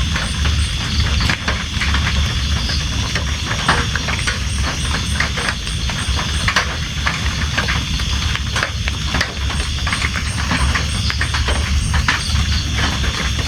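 Steady rain falling, with a continuous hiss and low rumble, and many separate drops striking a surface close by. A high chirp repeats about three times a second in runs that stop and start.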